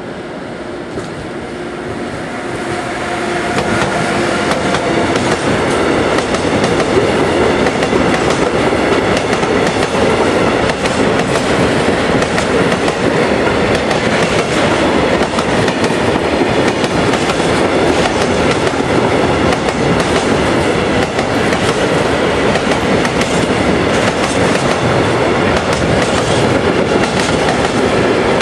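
Freight train of tank wagons passing close by. The sound builds over the first few seconds as the locomotive comes up, then holds as a steady loud rumble with the rhythmic clickety-clack of wagon wheels over the rail joints.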